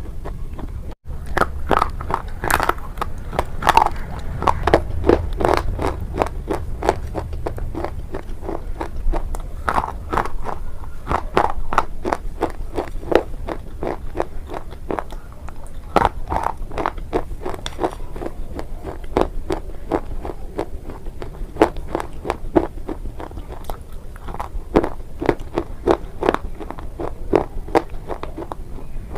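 Biting and crunching of a hard, brittle mineral item such as slate pencil, clay or chalk: a steady run of sharp crunches, several a second.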